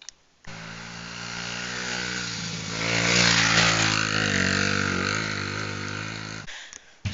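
Small dirt-bike engine running, growing louder to a peak about three seconds in and then fading away, as a bike riding past does.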